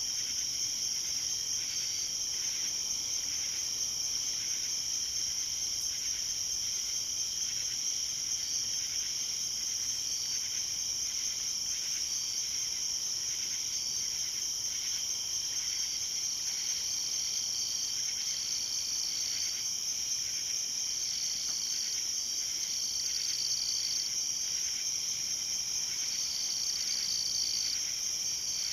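Night-time insect chorus: a steady, high-pitched trilling, with a second, slightly lower trill coming in and out in short spells during the second half.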